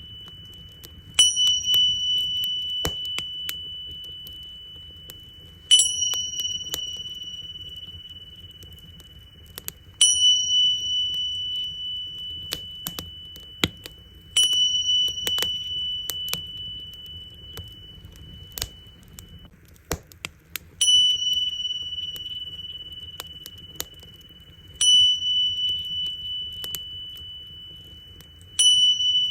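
Tingsha cymbals struck together about every four seconds, seven times, each clash ringing on as a high, clear tone that slowly fades. Under them a bonfire crackles with scattered sharp pops.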